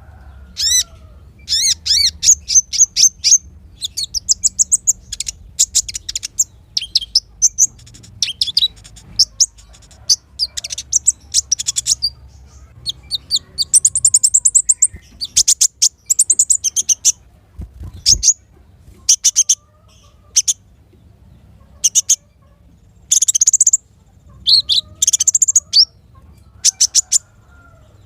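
Small songbird singing: rapid, high-pitched chirps and trills in short bursts separated by brief pauses.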